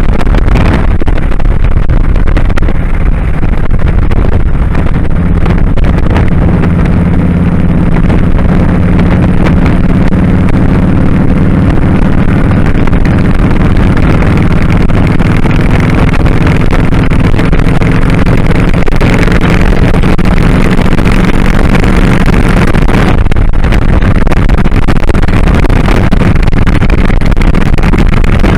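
2001 Kawasaki Drifter 1500's V-twin engine running steadily while riding, its note dipping briefly about three-quarters of the way through, with wind rushing over the microphone.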